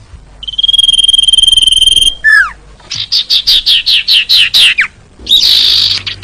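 Common iora (sirtu) calling: a long steady whistle of about a second and a half, a short falling note, then a fast run of about a dozen falling chirps, and a short harsh, hissing call near the end.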